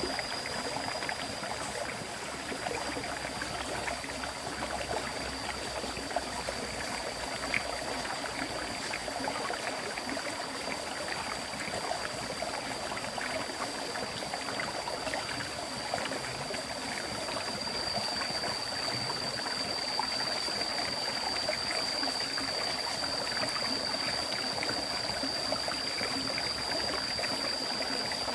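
River water flowing steadily, with a steady high-pitched tone sounding over it.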